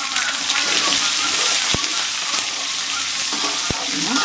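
Freshly added chopped onions and green chillies sizzling in hot oil in an aluminium kadai, a steady frying hiss, while a slotted metal spatula stirs them.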